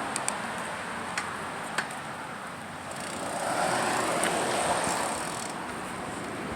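Riding noise from a bicycle: steady tyre and air rush with a few light clicks and rattles, and a swell of noise that rises and fades in the middle.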